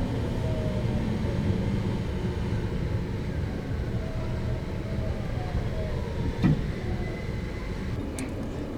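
285-series sleeper train running on the rails as heard from on board, its motor whine falling slowly in pitch as it slows for a station stop, with a single knock about six and a half seconds in.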